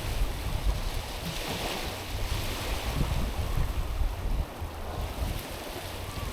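Small waves washing over a stony, pebbly shore, with swells of hiss as the water runs up and draws back, and gusts of wind rumbling on the microphone.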